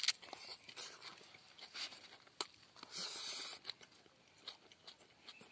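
Close-up chewing and crunching of a man eating a mouthful of rice wrapped in leafy greens: irregular crunches and clicks, with a longer crunch about three seconds in.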